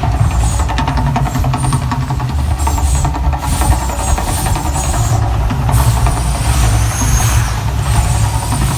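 Volcano eruption show: a loud, continuous deep rumble with hissing bursts coming and going over it.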